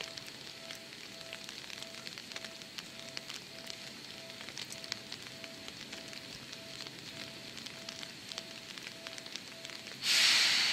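Seibu 2000-series electric train at a station, with a faint tone beeping about twice a second over light crackling. About ten seconds in comes a sudden loud hiss of air from the train, fading away as it starts to pull out.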